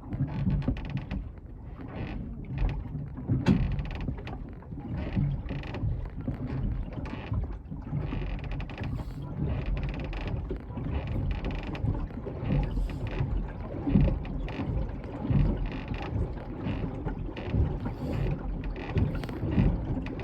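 Small fishing boat on the water: irregular knocks and creaks from the boat and its gear over a steady low rumble of wind on the microphone.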